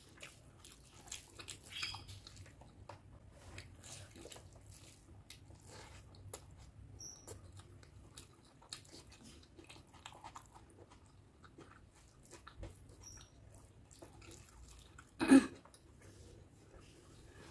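Close-up chewing of rice and curry with wet mouth clicks and smacks, and soft squelches of fingers mixing rice on the plate. About fifteen seconds in there is one much louder, brief low thump.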